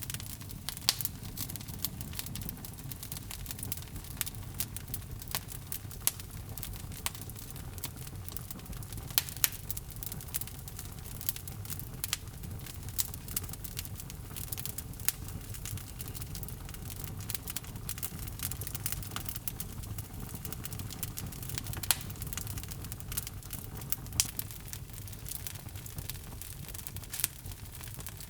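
Log fire burning in a fireplace: irregular crackles and snapping pops over a steady low rumble of flame, with a few sharper pops.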